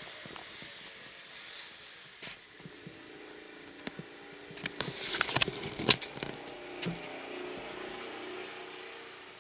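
A steady hum of several pitches, like an engine running, with a burst of sharp clicks and crackles about five to six seconds in.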